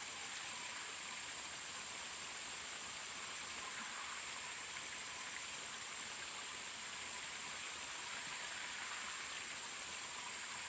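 Steady rush of a mountain stream's flowing water, with a constant high-pitched insect drone over it.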